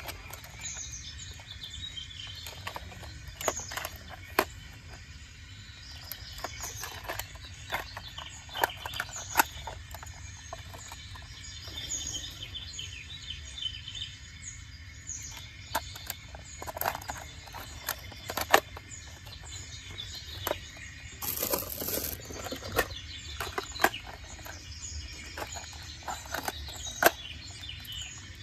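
Small birds chirping outdoors over a steady background hum, with scattered sharp clicks and knocks.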